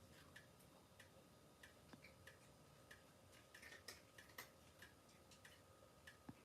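Near silence with faint, irregular small ticks.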